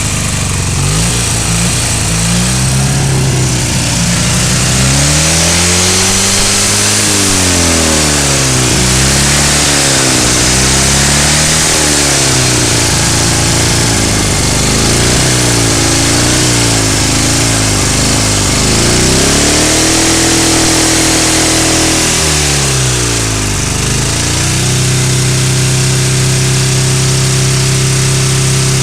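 Ural motorcycle's flat-twin engine being revved over and over, its pitch rising and falling with each twist of the throttle, then held at a steady speed for the last few seconds.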